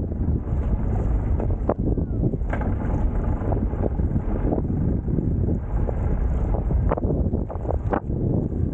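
Wind buffeting the microphone on a surf boat, with water noise and a few short sharp slaps or knocks, about four in all.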